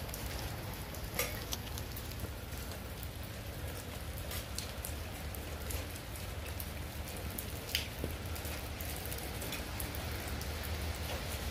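Light rain pattering on a wet brick patio: a steady hiss of drops with scattered sharper ticks, two of them standing out about a second in and near 8 seconds, over a steady low rumble.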